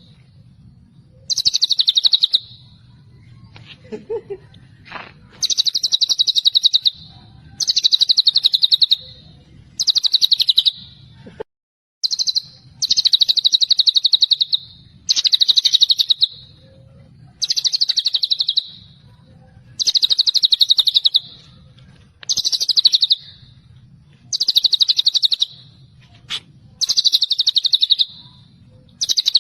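White-rumped shama (murai batu) singing, repeating a high-pitched, fast trilled phrase about every two seconds, about a dozen times; the title calls this its 'tembakan celilin' song.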